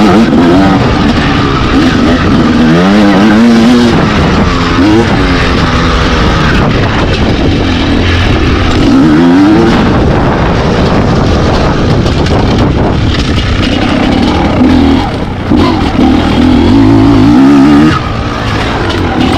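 Enduro dirt-bike engines revving hard, the pitch rising and falling again and again with throttle and gear changes.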